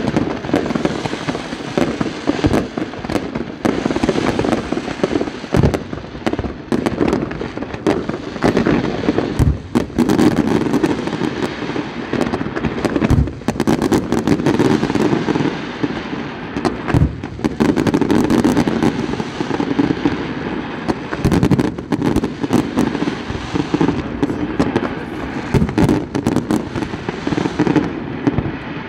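Fireworks display: a dense, continuous barrage of sharp bangs and crackling as many fireworks fire and burst in quick succession.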